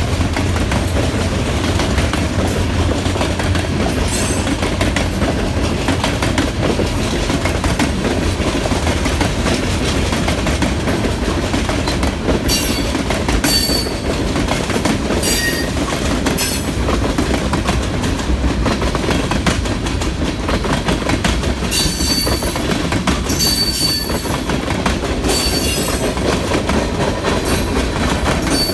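Pan Am Railways freight train rolling past with a steady rumble of wheels on the rails. From about halfway through, short high-pitched wheel squeals come and go several times.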